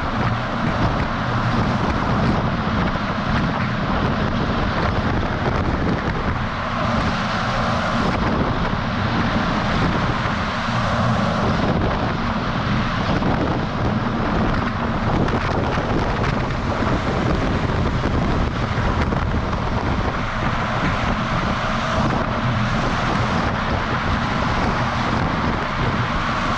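A semi-truck driving at steady speed, its diesel engine and tyres running continuously, heard through heavy wind rushing over the microphone of a camera mounted on the outside of the truck.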